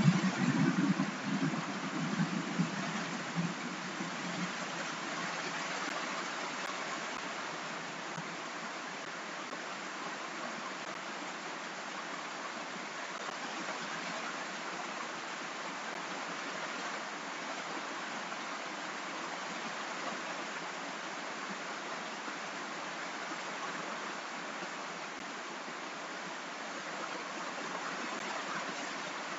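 Steady rain: an even hiss of falling rain with no break. A louder low sound rises over it in the first few seconds, then fades out.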